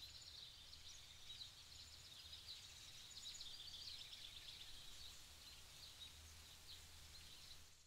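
Faint outdoor ambience: small birds chirping and twittering steadily over a low hum, fading out at the very end.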